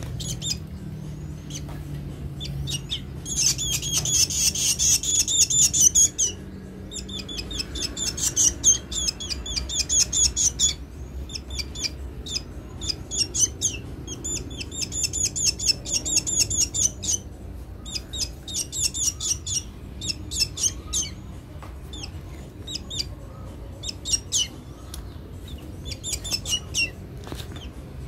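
A hungry black bird calling in runs of rapid, high-pitched chirps, about six a second, each run lasting one to three seconds with short pauses between.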